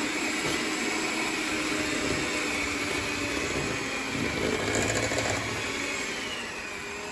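Electric hand mixer running steadily, its beaters whisking a thick batter of flour, sugar, egg, butter and milk in a glass bowl. The motor's whine dips slightly near the end.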